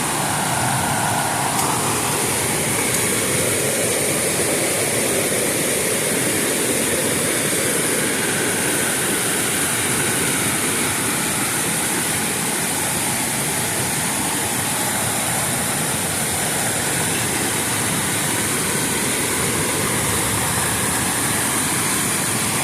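Waterfall on a creek, its water rushing down in a steady, unbroken noise.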